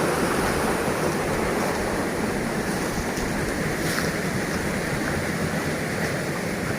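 Steady rushing of river water below a dam, a constant wash of noise with no rhythm or tone.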